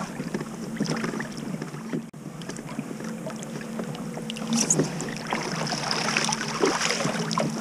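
Water splashing and dripping around a kayak on choppy water, with scattered small clicks and splashes and a faint steady hum underneath.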